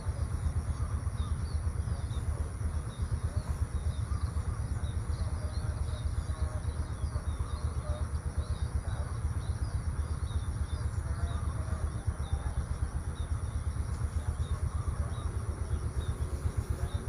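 Rural outdoor ambience: a steady, fluttering low rumble is the loudest part, with many small birds chirping and a steady high-pitched drone above.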